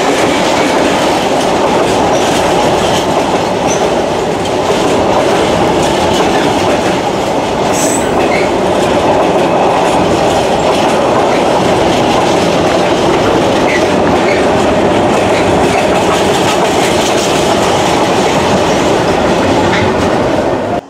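Container freight train's loaded flat wagons passing close by: a loud steady rumble of wheels on rail with clickety-clack over the joints, and a brief high squeak about eight seconds in.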